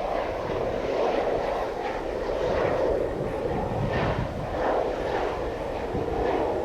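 Jet airliner on landing approach, its engines making a steady rushing noise.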